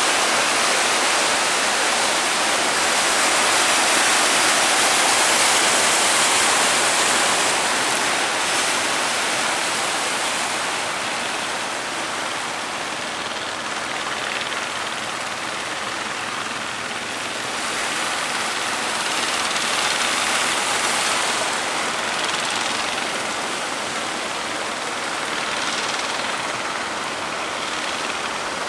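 Heavy surf: a continuous roar of big waves breaking, swelling and easing slowly with no distinct crashes.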